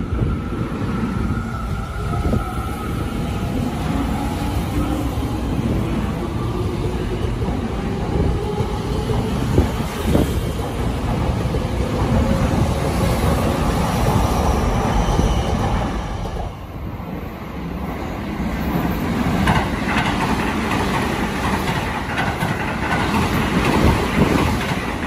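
Tokyo Metro electric train pulling out of the platform, its traction motors whining upward in pitch as it gathers speed. Near the end a second train runs by on the far track.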